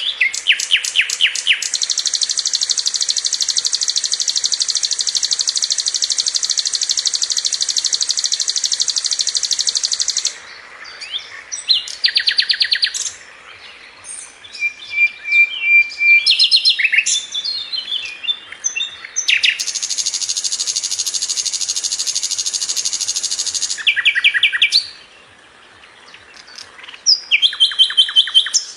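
Sikatan londo flycatcher singing: long, even, high rolling trills lasting several seconds, broken by short bursts of rapid stuttering notes and scattered chips.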